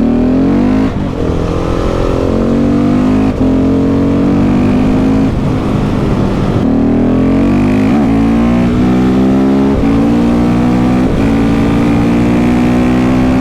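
KTM 690 SMC R single-cylinder engine through a Leo Vince exhaust, pulling under throttle. Its pitch climbs, with short breaks every second or two.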